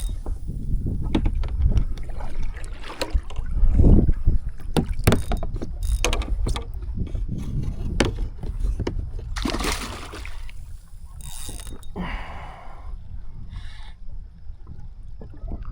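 Wind buffeting the microphone on a kayak, with scattered knocks and clicks of gear against the hull and a louder rushing burst about ten seconds in.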